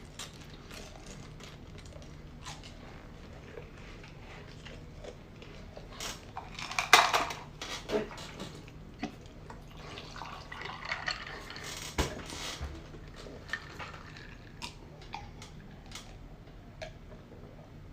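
Scattered clicks, rattles and short bursts of rustling as small hard Warheads candies and their packets are handled, loudest around the middle of the stretch.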